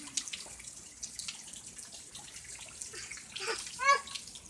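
Rain dripping and splashing in irregular little taps. A young child gives a short, high-pitched squeal about three and a half seconds in.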